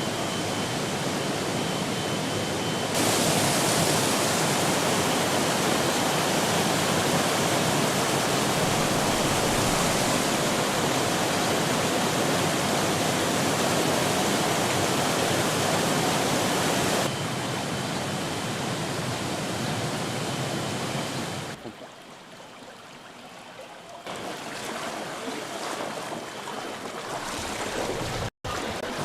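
Rushing floodwater: a dense, steady wash of water noise, broken by several abrupt cuts in level, with a quieter stretch near the end and a brief dropout just before it ends.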